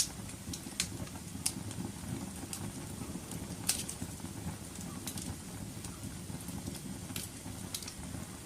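Wood fire crackling in a fireplace: sharp pops and snaps about once or twice a second over a low, steady rush of burning flames.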